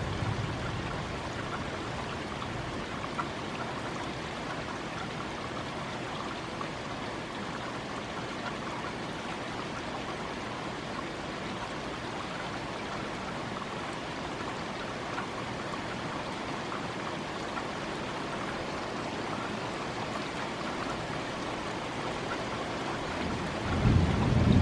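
Steady rain falling through the thunderstorm. A low rumble of thunder swells up about a second before the end.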